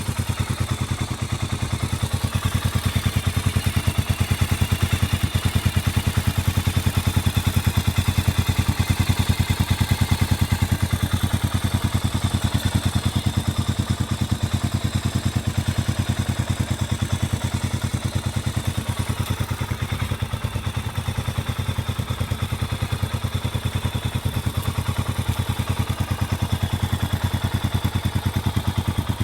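Exhaust note of a Honda CB400SS single-cylinder engine through a Moriwaki short classic full exhaust system, running steadily at an even, low pulsing beat.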